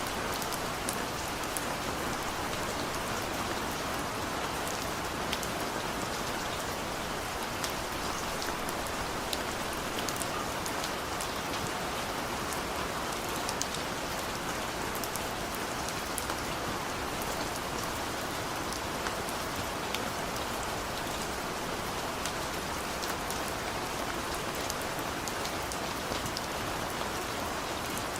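Steady rain falling, a constant hiss with many individual drops pattering on surfaces.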